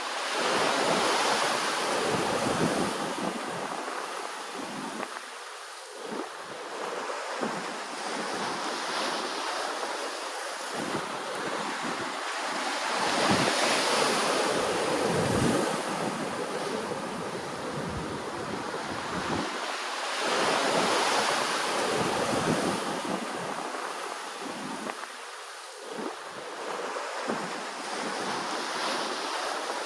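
Ocean waves washing in, a steady rushing surf that swells and eases every several seconds, loudest near the start, in the middle and about two-thirds through.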